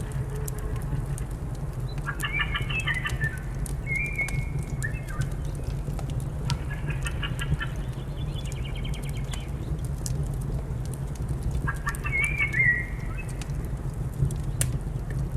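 A songbird singing three short phrases of quick chirps and whistled notes, a few seconds apart. Under it, fireplace crackling with scattered sharp pops and a steady low rumble.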